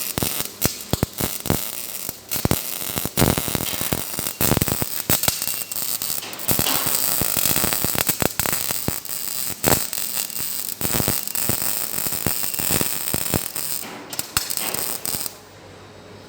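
Electric arc welding on steel: a steady hiss broken by many sharp, irregular crackles, which cuts off suddenly near the end.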